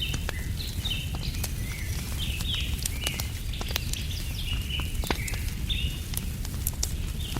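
Wood fire crackling with scattered sharp pops over a steady low rumble, while a bird repeats short chirping calls about twice a second.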